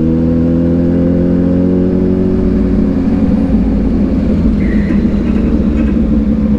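2022 Kawasaki Ninja 1000SX's inline-four engine through an AR aftermarket exhaust, its pitch climbing slowly as the bike gains speed for the first two seconds or so, then holding steady.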